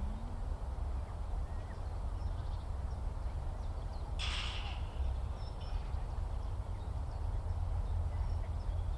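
Open-countryside field recording: a steady low wind rumble on the microphone, with faint, scattered high bird chirps and one brief, harsh, noisy bird call about four seconds in.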